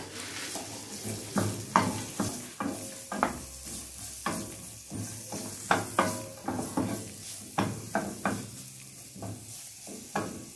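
Julienned carrots sautéing in olive oil in a stainless-steel frying pan, stirred with a wooden spoon: a steady sizzle with irregular knocks and scrapes of the spoon against the pan.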